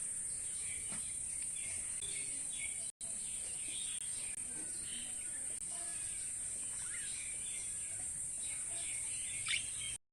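Budgerigars chirping in short, soft calls over a steady high-pitched hiss; the sound drops out for an instant about three seconds in.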